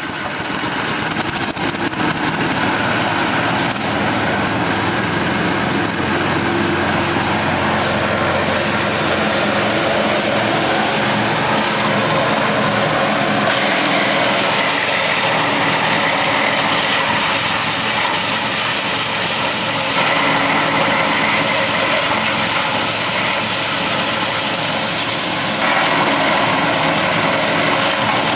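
Engine-driven forage chopper running steadily, coming up to speed over the first couple of seconds.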